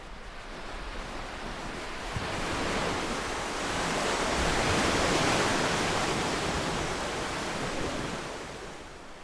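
One ocean wave breaking and washing in: a hiss of surf that swells over a few seconds, is loudest near the middle, and fades away near the end.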